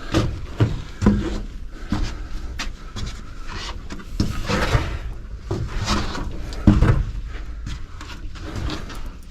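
Irregular footsteps, scuffs and knocks of a person clambering through a narrow sandstone drain tunnel, echoing in the confined space.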